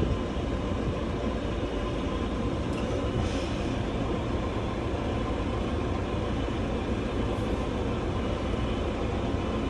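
Tractor engine running steadily under way, heard from inside the cab: an even, unbroken low drone.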